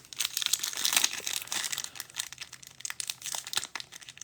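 Plastic trading-card pack wrapper crinkling as the last pack of NFL cards is handled and opened: a dense run of sharp crackles.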